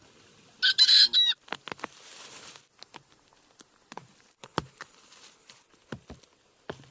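A bird's loud squawk, lasting under a second, near the start, followed by scattered sharp clicks and knocks.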